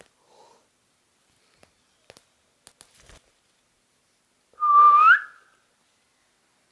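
A ringneck parakeet gives one loud whistle about two-thirds of the way in, held on one pitch and then sweeping upward at the end. A few faint clicks come before it.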